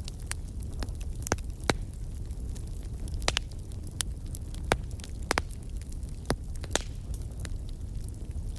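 Wood bonfire burning: irregular sharp pops and snaps of the burning wood, several loud ones a second or so apart, over a steady low rumble of the flames.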